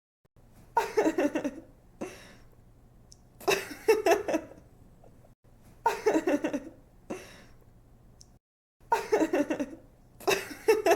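A young woman giggling, in short bursts of quick laughing pulses that repeat every two to three seconds, five times in all.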